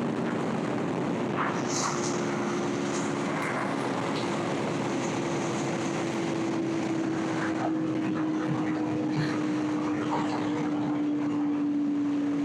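2021 Yamaha YZF-R1's inline-four engine running at a steady cruise, its pitch sinking slowly, under a steady rush of wind noise.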